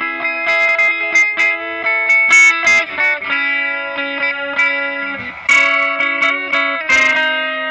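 Ibanez 12-string hollow-body guitar being played: picked notes ringing over held chords, with fresh strummed chords about two-thirds of the way through and again near the end.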